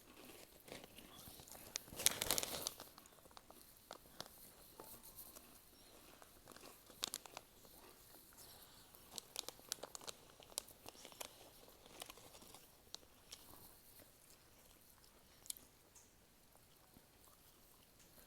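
Crunchy dried fish snack being bitten and chewed, with a plastic snack packet crinkling. A louder rustle comes about two seconds in, then faint scattered crunches and clicks.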